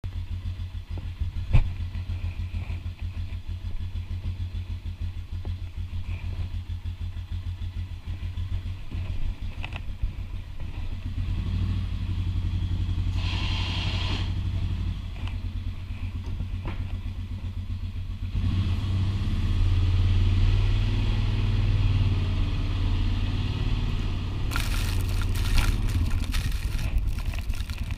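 ATV engine running with a low, even pulse, working harder and louder about a third of the way in and again past the middle. There is a sharp knock near the start and a hiss with crackles in the last few seconds.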